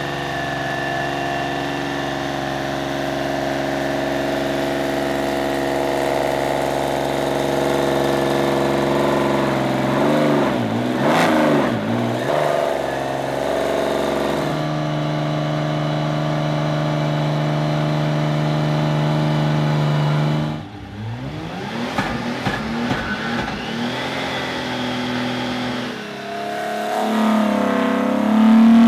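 Built 4.2-litre Nissan VQ35HR V6 with individual throttle bodies running under load on a chassis dyno during tuning. It holds long steady engine notes, with the revs wavering up and down twice and a sudden let-off about twenty seconds in. Near the end the pitch climbs steeply as the engine revs up into a pull.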